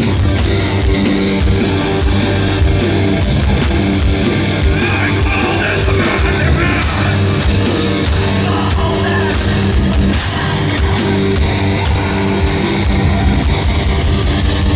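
Loud live heavy rock band playing: distorted electric guitars and bass over drums with frequent cymbal hits.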